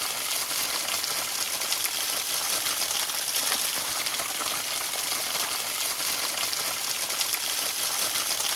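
Chamberlain Creek waterfall: a steady rush of falling water.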